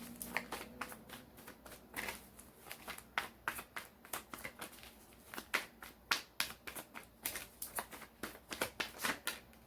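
A deck of tarot cards being shuffled by hand: a run of quick, irregular card clicks and riffling rustles.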